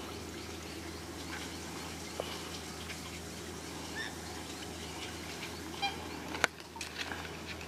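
Birds chirping faintly over a steady low background hum, with a single sharp knock about six and a half seconds in.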